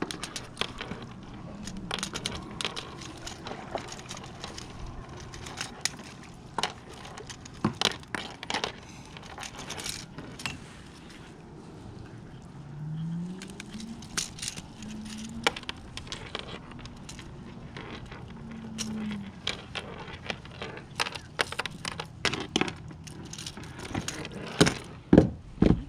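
Irregular metallic clicks, clinks and knocks of fishing pliers and lure hooks as a deeply hooked peacock bass is worked free on a kayak, loudest near the end.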